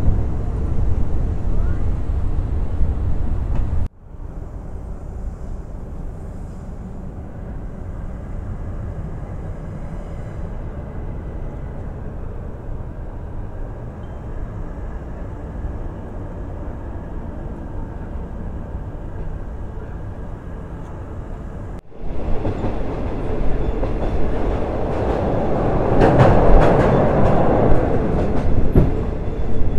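Third-class passenger train running along the track, heard from aboard: a steady low rumble. The sound drops abruptly to a quieter stretch a few seconds in and jumps back up later, and near the end the wheels clatter louder over the rail joints.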